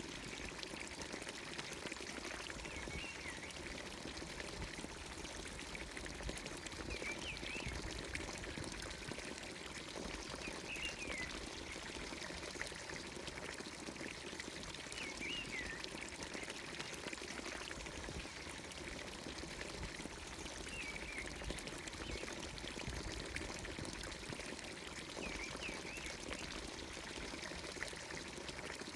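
Water pouring steadily from the spout of a traditional village fountain, with a bird giving short chirps every few seconds.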